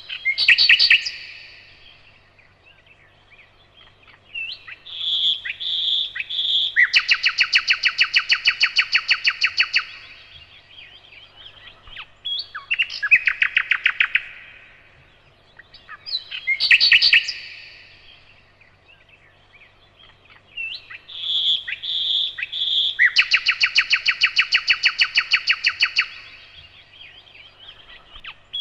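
Nightingale singing in loud, varied phrases: short whistled notes, then long, rapid, pulsing trills, with pauses between phrases. The same sequence of phrases comes round twice.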